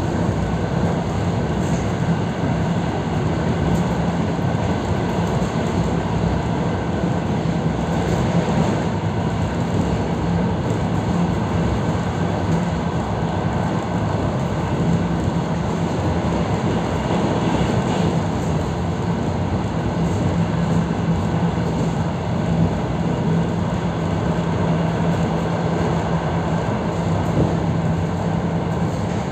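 Passenger-car interior of the ЭП3Д electric multiple unit running at speed: a steady rolling rumble of wheels on rail, with a low steady hum running through it.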